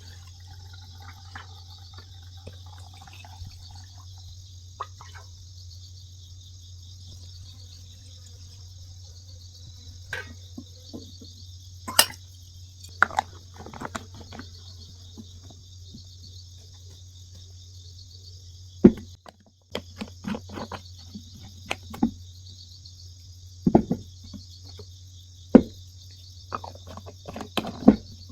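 Steady chirring of crickets over a low hum, with a scatter of short knocks and clinks, the sharpest about 12, 19, 24 and 26 seconds in.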